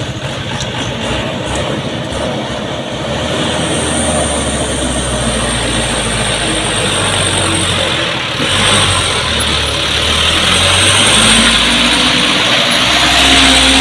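Heavy truck's diesel engine working hard under load on a steep climb, getting louder, with a short dip about eight seconds in before it picks up again.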